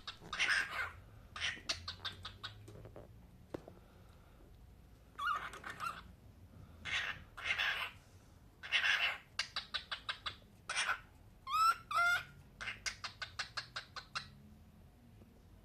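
Cockatiel calling: harsh, noisy screeches about half a second long, several of them each followed by a quick run of short chirps, with two whistled notes that swoop up and down about twelve seconds in.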